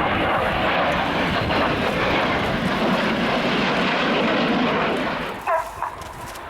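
Military jet flying past, its engine making a loud, steady rush of noise that fades away about five seconds in.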